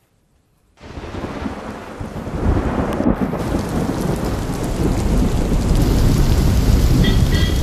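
Heavy monsoon rain pouring down, starting about a second in and building over the next couple of seconds, with a deep rumble underneath. A brief high tone sounds near the end.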